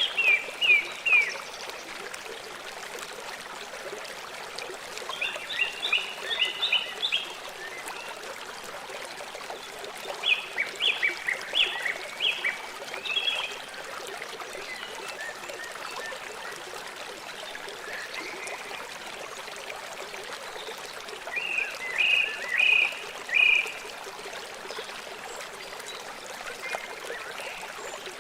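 River water flowing in a steady rush. Over it, a bird calls four times, each a short run of quick, high repeated notes.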